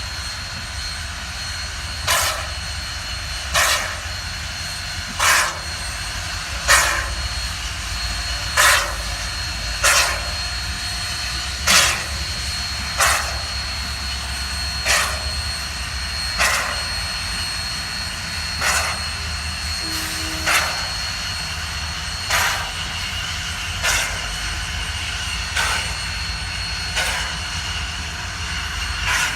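Union Pacific 844 steam locomotive puffing steam in an even rhythm, one sharp exhaust puff about every second and a half, over a steady low rumble and a thin high steam hiss.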